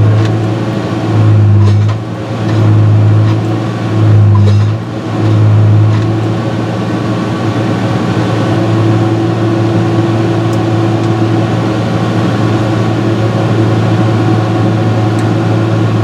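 Fabtek 153 harvester running with a loud low mechanical hum that swells and fades about once a second for the first six seconds, then holds steady, as the engine is brought up to temperature to test a new thermostat.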